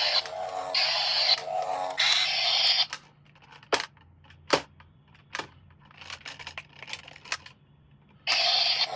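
Toys and their packaging being handled during an unboxing: about three seconds of rustling, scraping bursts, then a quieter stretch of scattered sharp clicks, with the rustling starting again near the end.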